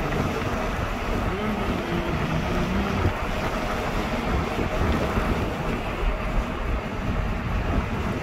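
DKW Barkiza's two-stroke engine running at road speed, with wind rushing through the open-sided cabin. Its pitch wavers slightly in the first few seconds.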